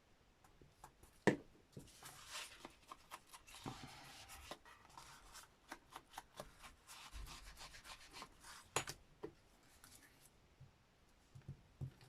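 Ink blending tool rubbed and dabbed over paper to apply black ink, a scratchy rubbing broken by many small taps, with a sharp knock about a second in and another near the end.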